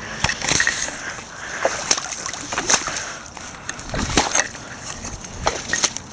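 Footsteps wading through a shallow stream: a string of irregular splashing, sloshing steps in the water.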